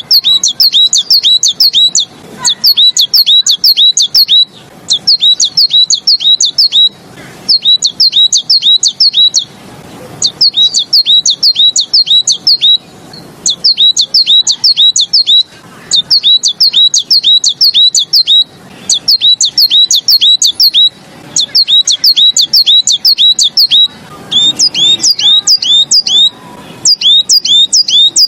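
A 'beizi' songbird singing: rapid strings of sharp, down-slurred chirps, several a second, in bursts of one to two seconds with short pauses between them. It is a song recording of the kind used to teach caged birds this song.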